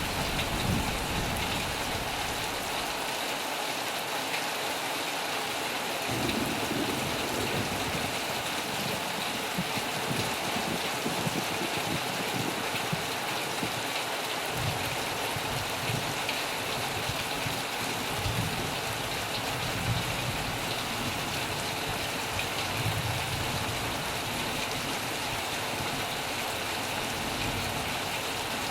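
Heavy rain falling on a metal roof: a steady, dense hiss with uneven low drumming underneath.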